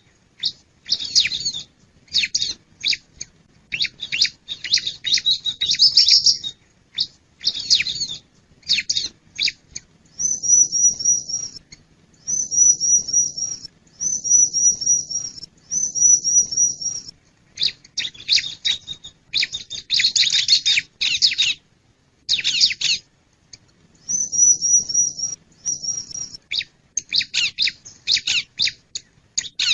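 Bar-winged prinia (ciblek) singing loudly in rapid bursts of sharp, high chirping notes. Twice it breaks into a run of short, evenly repeated trilled phrases before going back to the fast chattering.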